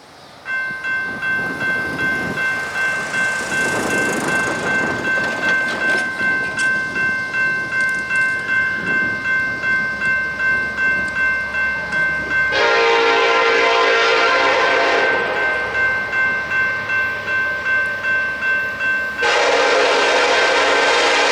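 A bell ringing steadily at about two strokes a second as a Union Pacific intermodal train approaches. The locomotive's horn sounds twice: one blast of about two and a half seconds roughly halfway through, and another starting near the end.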